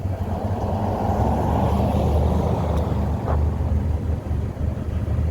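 A car's engine running steadily, a low hum with a rush of road or air noise that swells during the first few seconds.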